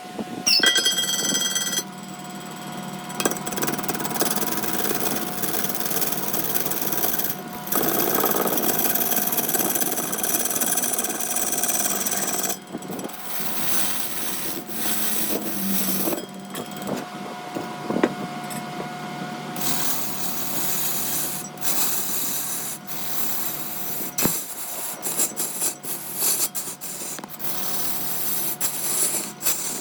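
Large wood lathe running with a steady hum while a turning tool scrapes and cuts a spinning wood blank. The cutting noise shifts abruptly several times, and a brief ringing squeal comes about a second in.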